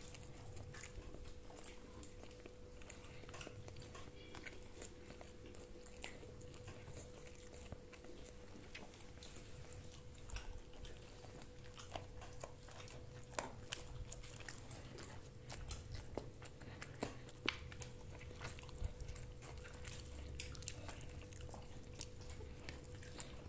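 A person chewing and biting food close to the microphone: faint, irregular small clicks and smacks over a steady low hum.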